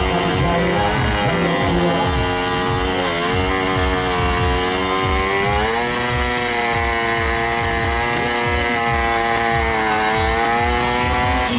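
Two-stroke Kawasaki Ninja drag bike engine revving hard, its pitch dipping and climbing again several times.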